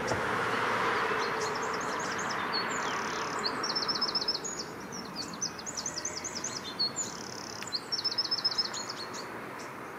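A songbird singing several runs of quick, high repeated notes over a steady rush of flowing river water.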